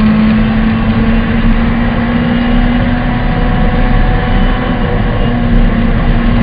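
Honda Civic VTi rally car's four-cylinder engine pulling at a steady pitch, heard loud from inside the cabin over a constant rush of road noise, with a short break in the engine note about five seconds in.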